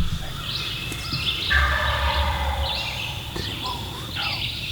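Eastern wild turkey gobbling once, a loud rattling gobble about one and a half seconds in, with songbirds chirping throughout.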